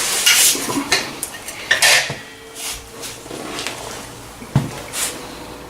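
Clatter and clinks of hard objects being handled and set down: a string of sharp knocks, busiest and loudest in the first two seconds, then a few scattered ones.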